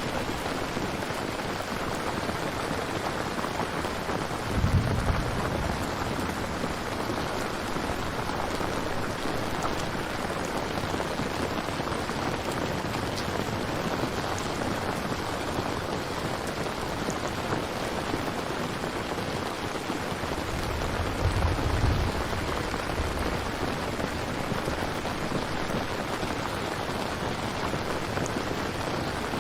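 Steady heavy rain falling, with two brief low rumbles of thunder, one about five seconds in and another about twenty-one seconds in.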